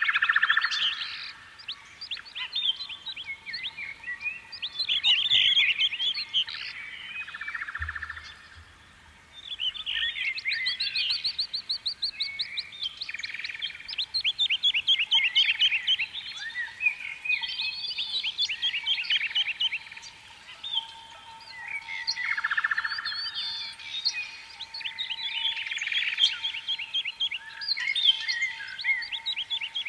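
Songbirds chirping and singing continuously, with many quick repeated notes and trills.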